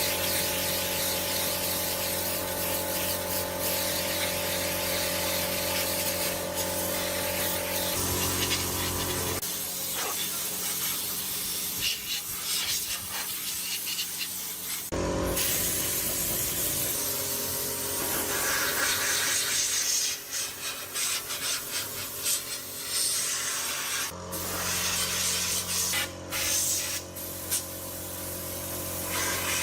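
Workshop tool noise: hissing, rubbing and scraping over a steady machine hum, changing abruptly several times.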